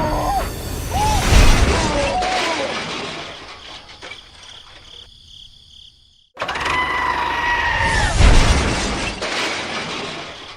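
A loud crash with a shattering, breaking noise that fades out over a few seconds, heard twice with an abrupt cut between.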